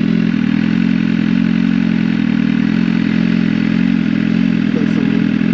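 BMW S1000RR's inline-four engine running at a steady speed while being ridden, its pitch holding nearly level.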